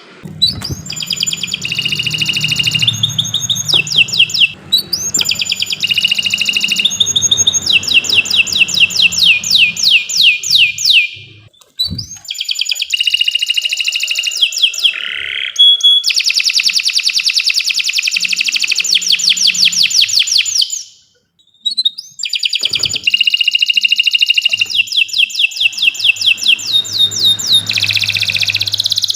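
Domestic canary singing in long phrases of rapid, evenly repeated trills and rolls, with two short pauses between phrases.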